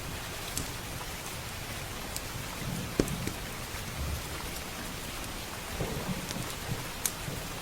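Steady rain pattering on a roof and windows, with low rolling thunder underneath. A few sharp crackles from a wood fire pop out now and then, the loudest about three seconds in and near the end.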